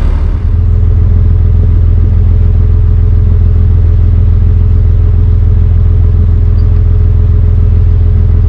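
Dutch barge's engine running steadily under way, a loud, even low drone with no change in speed.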